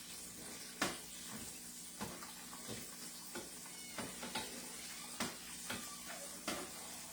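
Hot oil sizzling steadily from frying batter-coated chicken, with scattered light clicks of a utensil against the pan, the sharpest about a second in, over a steady low hum.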